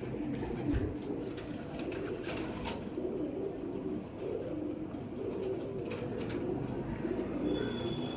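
Domestic pigeons of the Dubwalay breed cooing in repeated low, warbling phrases, with a few light clicks in the first few seconds.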